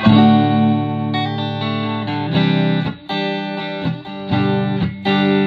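Clean electric guitar chords from a Fender Stratocaster on its neck pickup, played through a Fender amp. A loud chord is struck right at the start, and new chords follow about once a second, each ringing on between strikes.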